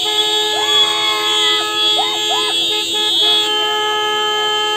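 Many vehicle horns honking at once and held long in a slow-moving traffic jam. Short rising and falling calls, likely voices, sound over them in the first three seconds.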